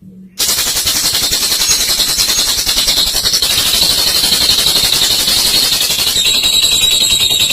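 Olive lovebird giving a long 'ngekek': a rapid, unbroken chatter of fast repeated high notes, starting abruptly about half a second in.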